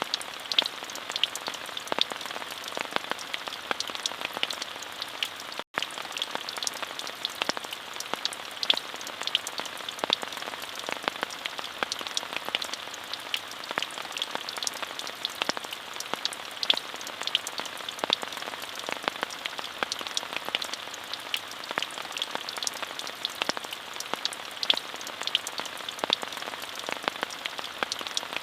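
Steady rain, a dense even hiss with many close individual drop ticks, strongest in the upper-middle range. There is a split-second dropout to silence about six seconds in.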